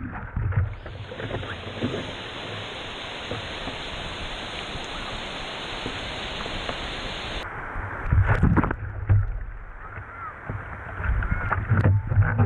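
Sea water rushing and splashing around a GoPro in shallow surf. A steady wash runs for several seconds, then heavy knocks and splashes come about eight seconds in and again near the end.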